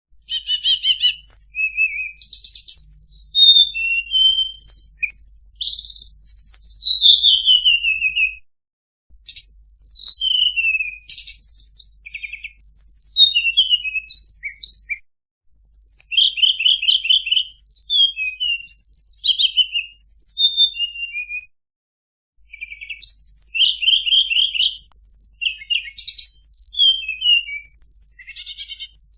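A tledekan songbird singing a fast, varied string of high chirps, trills and short falling whistled notes in long unbroken phrases, with brief silences between the phrases about 8, 15 and 22 seconds in.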